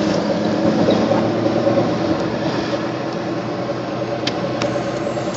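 Steady road, engine and wind noise heard from inside a moving car, with two short clicks near the end.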